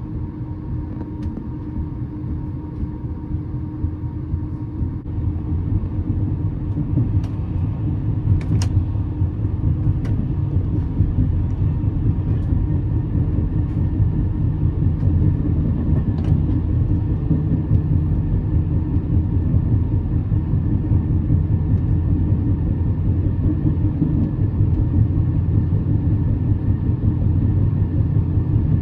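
Overnight sleeper train running on the line: a steady low rumble that grows louder over the first ten seconds or so, with a few sharp clicks.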